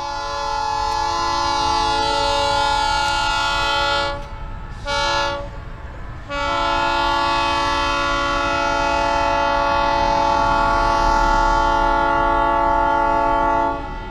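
Locomotive air horn sounding a chord of several tones in three blasts: a long one, a short one about 5 seconds in, then a long one of about seven seconds. A low rumble runs underneath.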